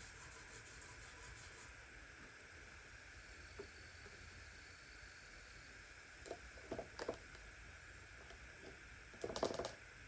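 Faint steady hiss with a few brief handling noises, the loudest short cluster near the end.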